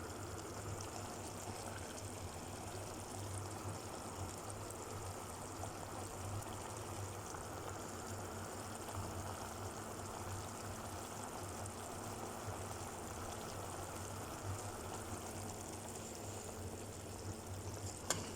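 Pot of chicken adobo simmering in its vinegar sauce: a steady, faint bubbling.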